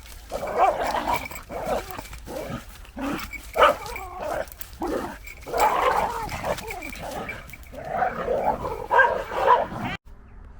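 Two dogs play-fighting, growling and vocalising in irregular, overlapping bursts. The sound cuts off suddenly near the end.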